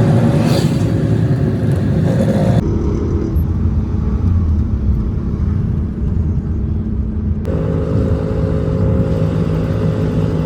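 A vehicle engine running steadily with a low hum, its sound changing abruptly about two and a half seconds in and again near seven and a half seconds.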